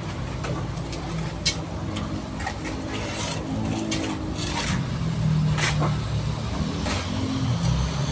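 An engine running steadily, getting louder about five seconds in, with scattered sharp clicks and scrapes over it.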